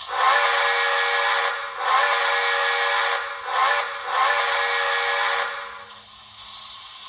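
HO-scale model steam locomotive's onboard sound decoder playing a chime steam whistle in the grade-crossing pattern: two long blasts, a short one and a final long one.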